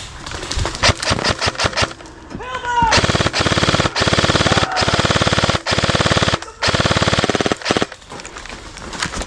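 Airsoft guns firing: a few scattered single shots, then long rapid full-auto bursts from about three seconds in, broken twice briefly, stopping near the end.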